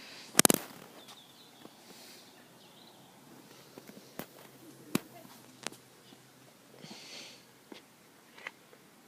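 Quiet outdoor background with a sharp knock about half a second in and a few faint scattered clicks after it.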